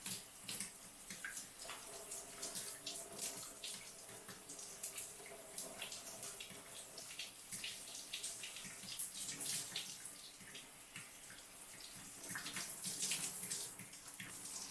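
Shower running, its spray splashing irregularly as hair is rinsed under it.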